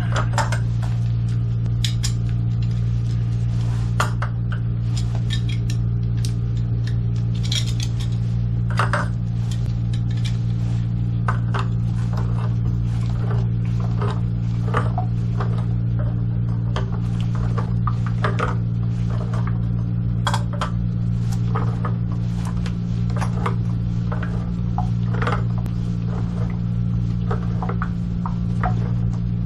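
Metal tools and plumbing fittings clinking and tapping irregularly while fittings are tightened, over a steady low hum.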